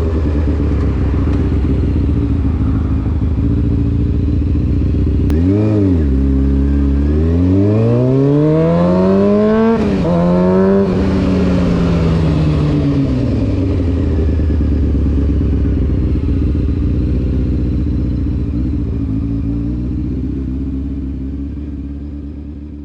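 Honda CBR600F4's inline-four through an SC Project exhaust: idling, a quick blip of the throttle about five seconds in, then the revs climb for about three seconds, drop sharply, and fall back to a steady idle. The sound fades out near the end.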